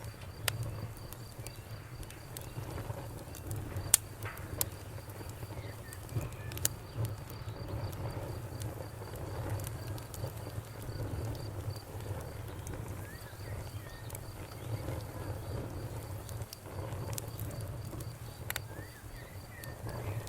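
Campfire burning with a low rumble and scattered sharp crackles and pops, the loudest about four seconds in. Crickets chirp in a steady, fast, high pulse behind it.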